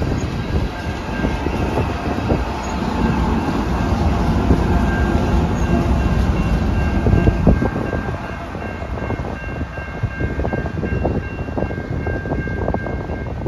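Railroad cars rolling past close by, with a continuous rumble and sharp clicks of the wheels over rail joints, more distinct in the second half. A faint steady high whine rides over it.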